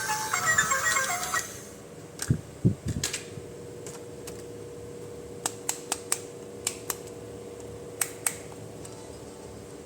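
Small hard plastic toy parts clicking and knocking as they are handled: a few soft knocks, then scattered sharp single clicks, over a faint steady hum. A music track cuts off about a second and a half in.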